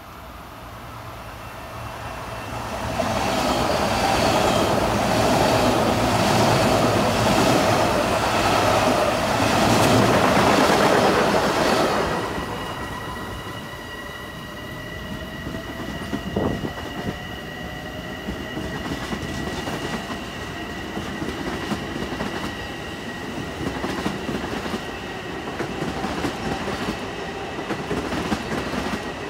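Long Island Rail Road electric multiple-unit train running past on the tracks. There is a loud rush of wheels on rail for about the first ten seconds. It gives way to a steady high whine with a slowly rising tone and clicks of wheels over rail joints as the cars go by.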